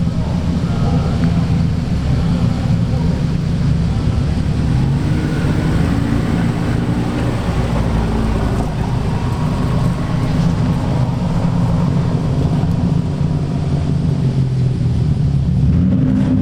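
Modified car's engine and exhaust rumbling at low speed, a steady deep note that rises and falls slightly in pitch.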